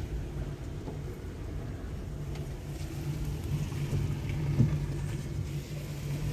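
Car engine running at low revs in first gear, heard from inside the cabin as the car creeps forward, with one brief thump about four and a half seconds in.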